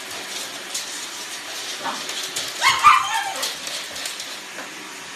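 A pug puppy barking at a running Roomba robot vacuum: a short yip about two seconds in, then a longer, falling bark just under three seconds in. A steady low hum runs underneath.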